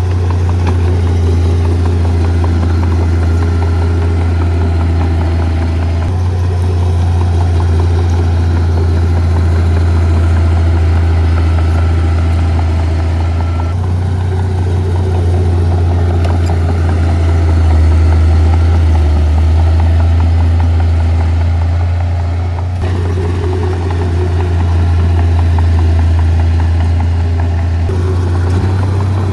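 Heavy earthmoving machinery's diesel engine running steadily with a deep, loud drone. The sound changes abruptly about six, fourteen and twenty-three seconds in.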